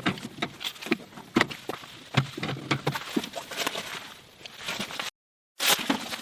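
Irregular small clicks and knocks, as of objects being handled. The sound cuts to silence for about half a second around five seconds in.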